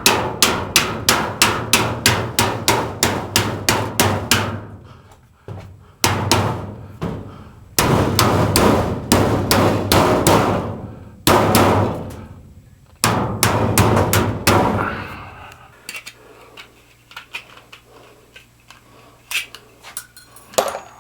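Rapid repeated hammer strikes, about four or five a second, in several runs broken by short pauses, over a low hum that stops about three-quarters of the way through; after that only a few scattered quieter knocks.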